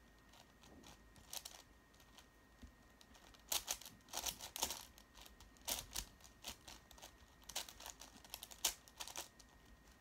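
A 5x5 Rubik's cube being turned by hand: irregular plastic clicking and clacking as layers are twisted, in short flurries with pauses between, busiest in the middle and latter part.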